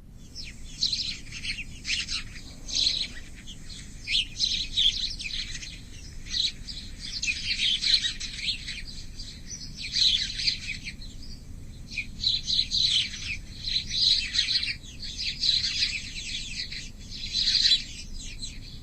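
House sparrows chirping: a continuous run of short, repeated chirps with no pauses.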